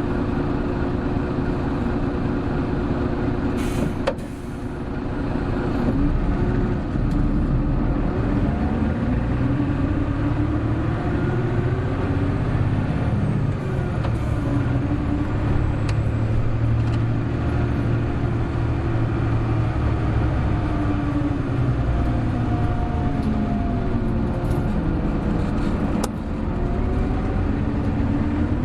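Hino Blue Ribbon City Hybrid bus's diesel engine pulling hard under acceleration, its pitch climbing and falling through gear changes. A click and a brief dip about four seconds in, and another dip in the sound near the end.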